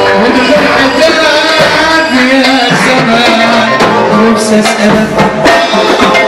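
Loud Egyptian shaabi wedding music from a live band: a singing voice over a wavering melody line, with steady percussion strokes.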